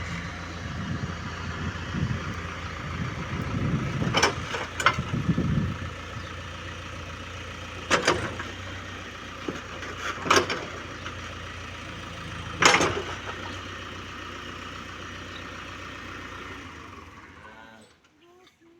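Heavy diesel engine running steadily, with a few deeper surges in the first five seconds and five or six sharp knocks spread through, then fading away near the end.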